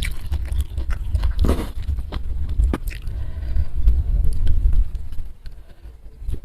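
Close-miked chewing and biting of food, with wet mouth clicks and crunches over a low rumble, easing off about five seconds in.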